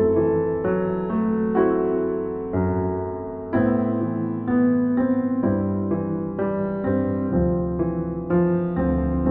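Slow, calm solo piano music: notes and chords struck one after another, each left to ring and fade.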